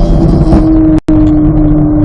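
2023 Chevrolet Corvette Z06's 5.5-litre flat-plane-crank V8 running hard at high, fairly steady revs on track, its pitch wavering slightly. The sound cuts out completely for a split second about a second in, then resumes at the same pitch.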